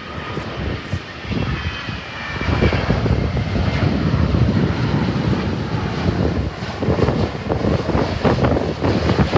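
Widebody jet airliner's engines passing: a faint whine, then the engine noise grows louder about two and a half seconds in and stays loud. Wind buffets the microphone.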